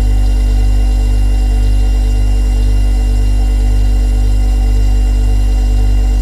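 Refrigerator compressor running with a steady low hum, with fainter steady higher tones over it.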